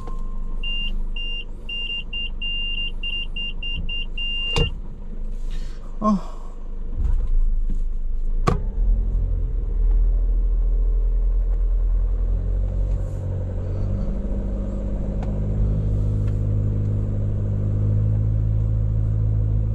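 Vehicle engines running under load as a pickup tows an SUV stuck in soft sand free: a low, steady rumble that grows fuller and louder in the second half. In the first few seconds a run of short electronic beeps quickens, and a few sharp knocks follow.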